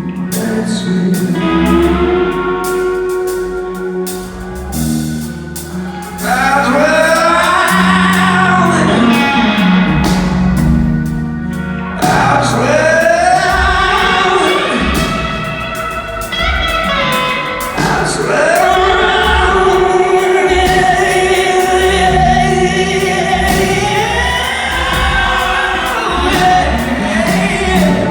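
Rock band playing a slow song, with guitar, bass and drums, and a singer's long, held and bending vocal lines coming in about six seconds in as the music gets louder.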